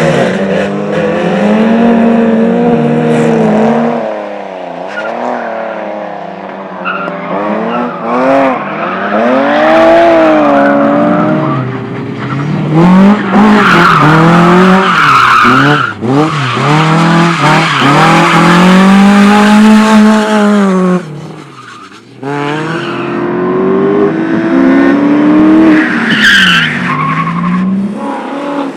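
Slalom race car engine revving hard, its pitch climbing and falling again and again with throttle and gear changes, with tyres squealing through the turns. About three quarters of the way through the engine drops off briefly, then pulls hard again.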